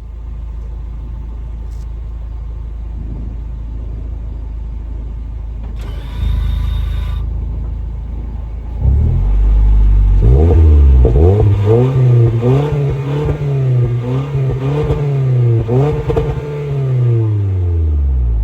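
2019 Corolla Hatchback's four-cylinder engine running through a newly fitted EOS aftermarket exhaust. It idles steadily at first, then from about nine seconds in it is revved repeatedly, the pitch rising and falling several times before it drops back near the end.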